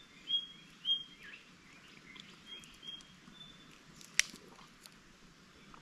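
Birds giving short, high chirps over quiet forest background, several in the first few seconds, with one sharp click about four seconds in.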